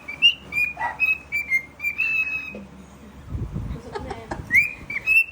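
Cockatiel whistling a tune: a quick run of clear, pure notes with small upward slides, a pause of about two seconds, then more notes near the end.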